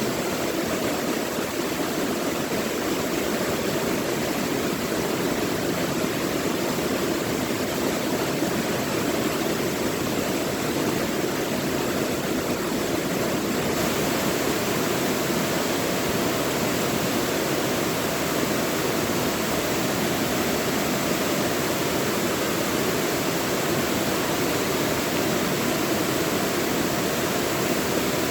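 Mountain stream rushing over rocks, a steady unbroken rush of water.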